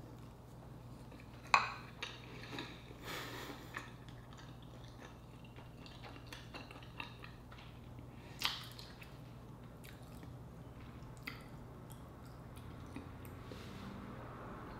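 Close-miked chewing and wet lip smacks from a mouthful of sea urchin roe with rice, with a few sharp clicks: the loudest about a second and a half in, another about eight and a half seconds in.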